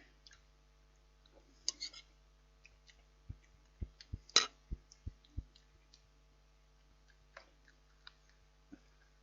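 Scattered small clicks and light taps from handling a microwave meal and its packaging. In the middle comes a quick run of about six dull low thumps, with one sharper, louder click among them.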